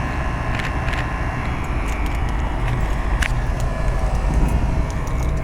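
1997 Rheem 3-ton straight-cool condensing unit running: a steady low hum and rush of its condenser fan and scroll compressor, with a few light clicks about half a second, one second and three seconds in.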